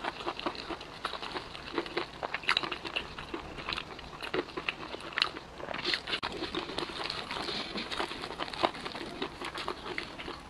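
Someone biting and chewing crispy fried chicken, the coating crunching in many irregular sharp crackles.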